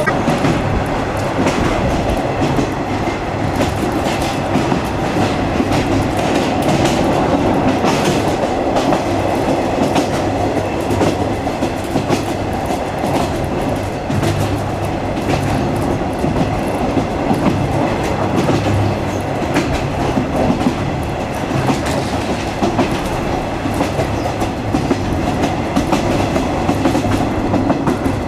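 Locomotive-hauled 50-series passenger coach running along jointed track: a steady rumble with the wheels clicking over rail joints now and then.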